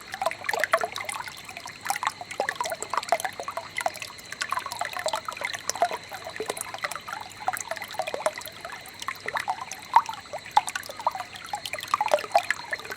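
A shallow stream of water trickling and babbling, with a constant patter of small, irregular plops and gurgles.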